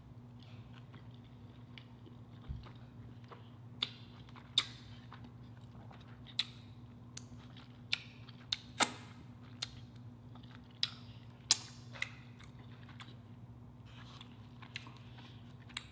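Close-up mouth sounds of a person chewing a soft flour-tortilla taco: about a dozen scattered wet lip smacks and clicks at irregular intervals, over a steady low hum.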